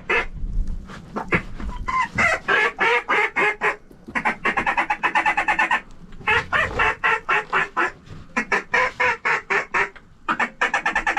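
Mallard duck calls blown in several long runs of rapid quacks and feed chatter, separated by short breaks, to bring a flock of mallards in over the decoys.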